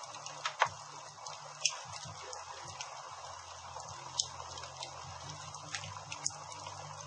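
Campfire burning, a steady hiss of flames with scattered sharp crackles and pops of burning wood, the loudest about half a second and a second and a half in.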